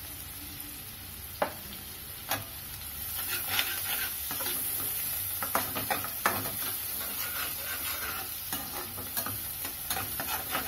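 Onions and chopped coriander sizzling in butter in a kadai, stirred with a metal spatula that clicks and scrapes against the pan a dozen or so times. The sizzle grows louder about three seconds in as the stirring gets going.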